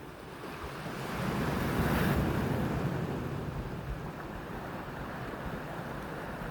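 A sea wave breaking and washing up the shore: a rush of surf that builds about a second in, peaks, then slowly fades. Wind buffets the microphone with low rumbling gusts.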